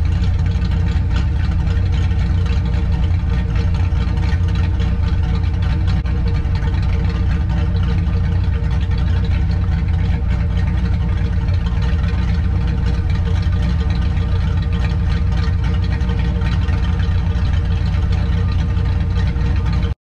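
Car engine running steadily, a low drone that holds an even pitch with no revving, cut off abruptly near the end.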